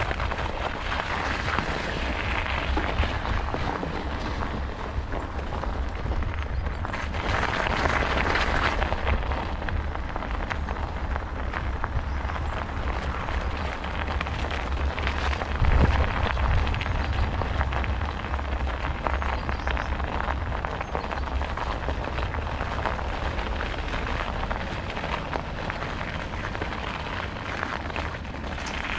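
Riding noise from a camera carried on a bicycle: wind rumbling on the microphone over a steady rush of tyres on the trail. There is a sharp knock, like the bike hitting a bump, about sixteen seconds in.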